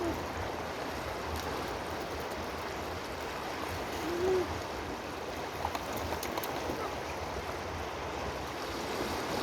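Steady rushing noise, like flowing water, with one short low tone that rises and falls about four seconds in.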